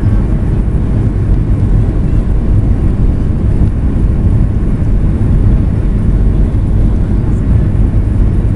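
Jet engine and airflow noise heard from inside an airliner cabin during take-off and climb: a loud, steady, low rumble with hiss above it.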